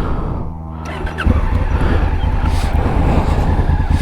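A 2017 Honda Africa Twin's parallel-twin engine being started: it catches about a second in and then runs with a steady low rumble.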